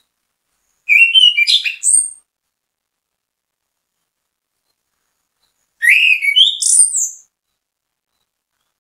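Orange-headed thrush singing: two short phrases of quick, varied whistled notes, each about a second and a half long, several seconds apart.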